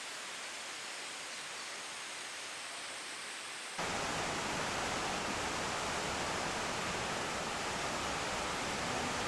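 Steady rushing outdoor ambience, like flowing water or wind, with no distinct events. About four seconds in it steps up abruptly, louder and fuller.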